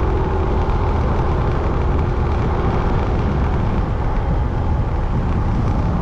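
Steady wind rush and road noise from a motorbike being ridden along a road, a deep even rumble with no change.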